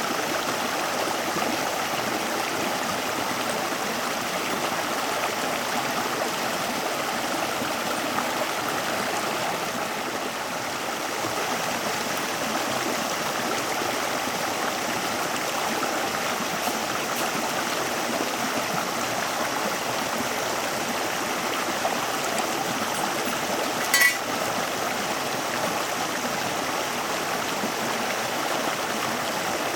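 Steady rush of running water, like a stream, with one sharp click late on.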